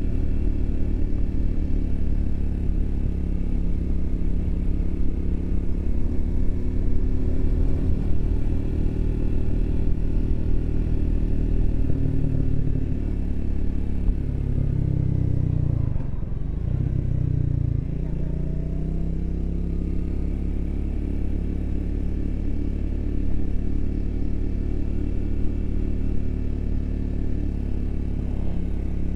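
Triumph Speed 400's single-cylinder engine running under way at steady revs. About halfway through, the engine note drops and comes back up before holding steady again.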